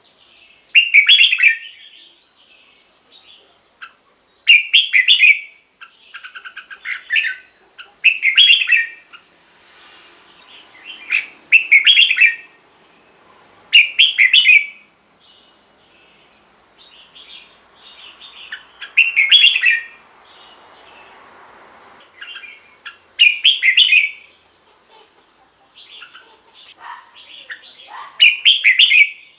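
Red-whiskered bulbul singing loud, short, rich phrases, one every few seconds, eight in all, with softer chattering notes between them.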